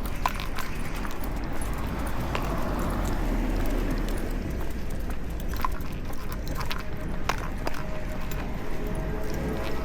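Scattered light clicks and taps of dogs' claws and footsteps on pavement during a walk, over a steady low rumble of street noise.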